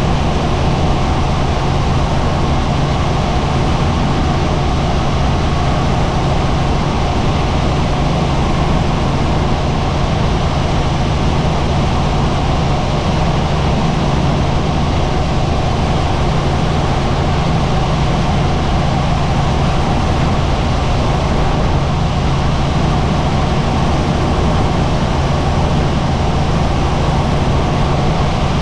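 Helicopter in flight: a loud, steady drone of engine and rotors with a strong low hum, unchanging throughout.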